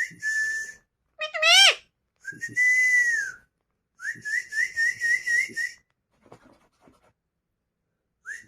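Pet parrot whistling four separate notes: a short steady whistle, a quick swooping whistle, a longer arched whistle that rises and falls, then a warbling whistle with about six quick wobbles.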